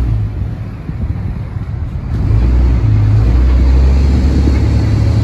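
Dodge Ram pickup's engine drone heard from inside the cab while it tows a loaded gooseneck trailer through a turn onto the highway, with road and wind noise. The drone gets louder and shifts in pitch about two seconds in as the truck pulls away under load.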